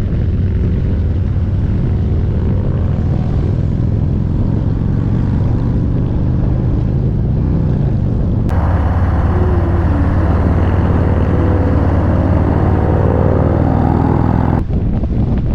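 Harley-Davidson V-twin motorcycle engine running at riding speed, a strong low rumble. The sound changes abruptly about eight and a half seconds in, and the engine note then climbs steadily as the bike accelerates, before switching back near the end.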